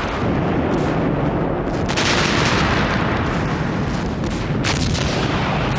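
Artillery barrage: a continuous rumble of heavy gunfire with repeated shots, and a louder blast about two seconds in.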